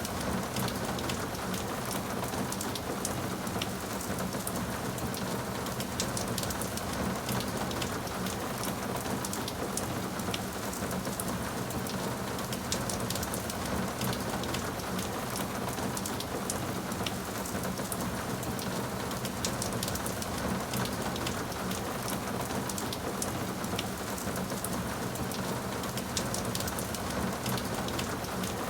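Steady rain falling on a surface, an even hiss dense with fine, sharp drop ticks.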